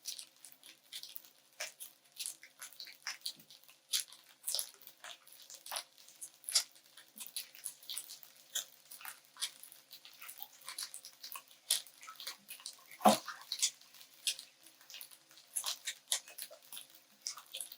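Spatula stirring and scraping fried rice in a wok: irregular light scrapes and clicks, with one louder knock about 13 seconds in.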